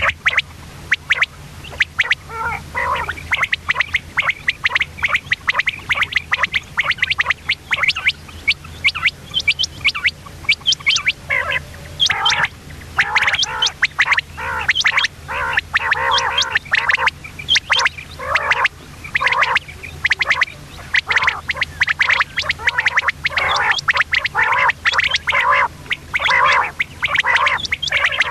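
Common quail calling continuously in rapid runs of short, harsh notes, over a faint steady low hum.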